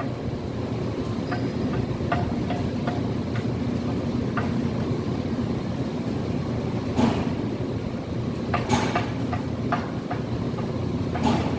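Construction site work: a steady low rumble of machinery with scattered knocks and taps, a few louder ones in the second half.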